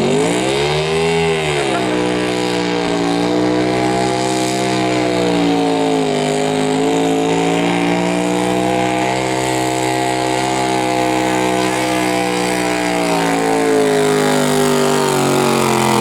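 Garden tractor's engine running hard at full throttle, pulling a sled under load. The pitch swells and dips in the first couple of seconds, holds steady through the pull, then starts to drop right at the end as the throttle comes off.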